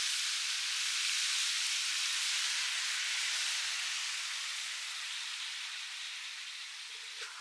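Chopped frog meat stir-frying in a hot steel wok: a steady hissing sizzle that slowly fades over the last few seconds, with a brief faint tap near the end.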